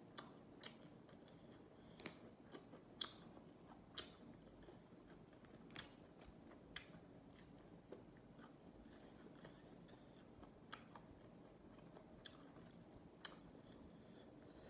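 Close-miked chewing of raw vegetables, with sharp, irregular crunches about once a second.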